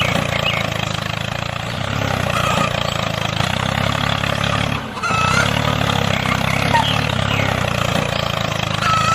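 Truck engine running steadily, with faint bird chirps over it; the engine sound drops out briefly about five seconds in and then resumes.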